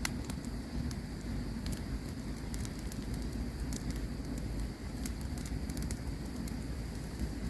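Campfire burning: scattered sharp crackles and pops of the wood over a steady low rumble of the flames.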